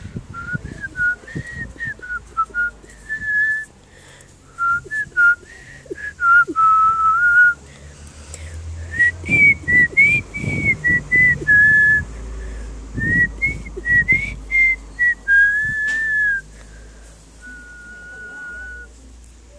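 A person whistling a tune, a string of held notes stepping up and down in pitch. Knocks and a low rumble on the microphone come partway through.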